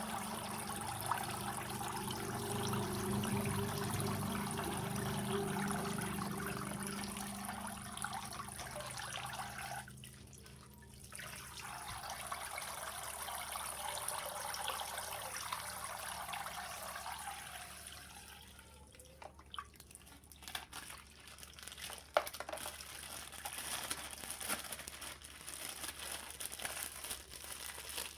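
Water pouring out of a punctured plastic water bag in a steady trickling stream, easing off about ten seconds in, then running again for several seconds. Near the end, scattered light clicks as the wet plastic is handled.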